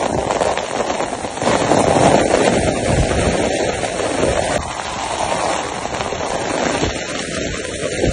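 Torrential rain pouring down, a dense rush of rapid drop impacts, with wind buffeting the microphone in uneven gusts.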